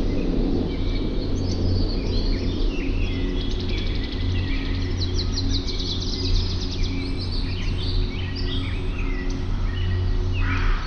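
Several wild birds chirping and singing, with a fast, even trill of rapid notes a few seconds in, and a harsh, noisy call near the end, over a steady low hum.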